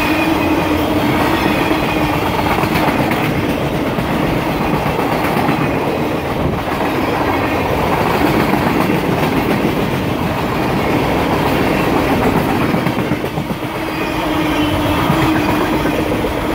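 Loaded freight-train flatcars rolling past close by, their steel wheels clattering rhythmically over the rail joints in a steady loud rumble. A steady hum from the wheels comes and goes.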